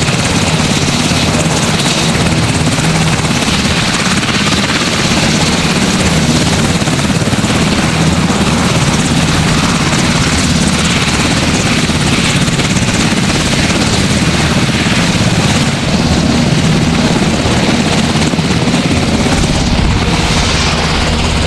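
Sikorsky S-64 Skycrane helicopter, its twin turboshaft engines and rotor running loud and steady, with a deeper rumble coming in near the end.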